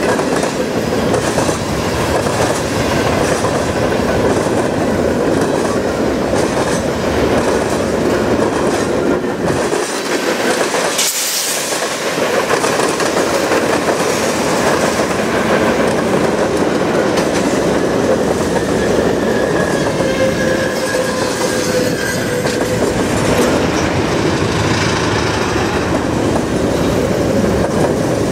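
Covered hopper cars of a freight train rolling past with steady wheel and rail clatter as the train goes into emergency braking. About eleven seconds in there is a brief rush of noise, and later a faint, slowly falling wheel squeal as the cars slow.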